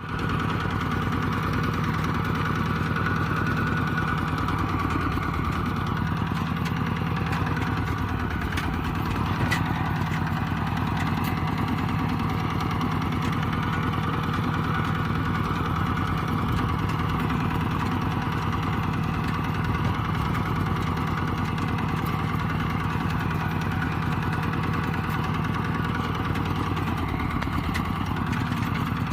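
Kubota RT120 Plus single-cylinder diesel engine running steadily at an even speed.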